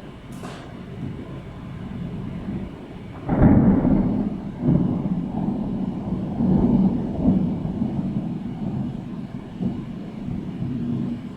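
Thunder: a low rumble builds, then a sudden loud clap about three seconds in, followed by a long low rolling rumble that swells and fades several times.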